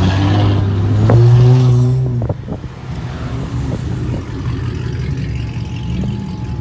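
A car engine revved hard: its note rises, holds high and loud for about two seconds, then drops away to a lower running sound, with a brief small rev again near the end.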